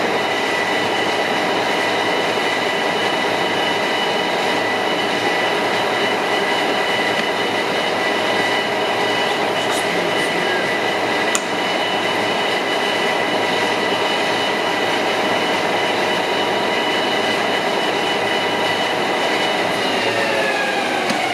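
Carlton 3A radial arm drill's spindle motor and gearbox running with the power feed engaged, a steady geared whine with a few faint ticks. Near the end the whine falls in pitch as the spindle slows to a stop.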